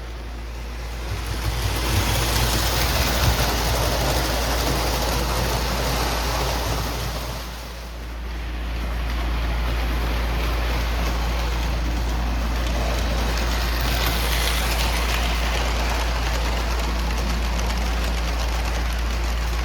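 O gauge postwar Lionel train running on the layout track: a steady rumble of wheels on rail over a constant low motor hum. It swells as the train comes close, dips briefly about eight seconds in, then rises again and holds.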